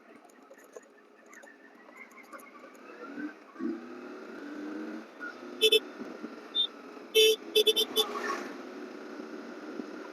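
Road traffic noise heard from a moving motorcycle, with a vehicle horn honking: a short honk about six seconds in, then a longer honk followed by three quick toots a second later.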